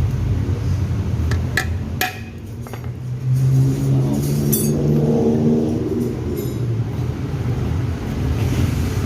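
A few sharp metallic clinks of tools on the gearbox parts while its bearing is being worked on. Underneath is a steady low engine hum, with an engine note rising and fading in the middle.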